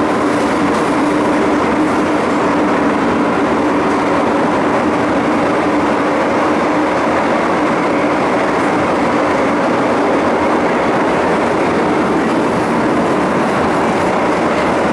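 MTR M-Train electric multiple unit running through an underground tunnel: a steady rumble of motors and wheels on rails with a faint constant hum.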